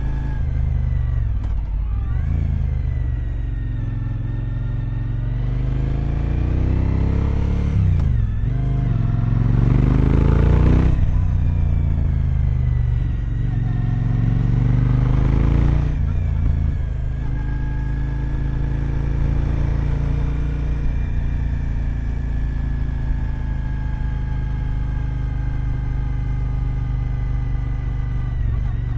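Motorcycle engine under way, revving up and easing off several times in the first half, loudest about ten seconds in, then running at a steady speed for the rest.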